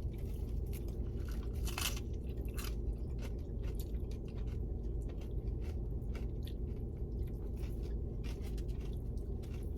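Close-up chewing and biting into tacos, with scattered crunches. A steady low hum runs underneath.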